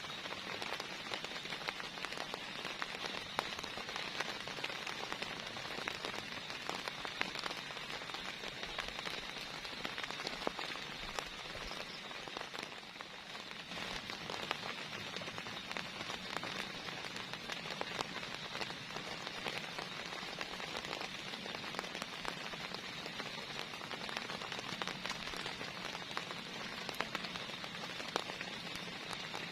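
Heavy rain falling steadily, a dense hiss of countless drops with many sharp individual drop hits ticking on a surface.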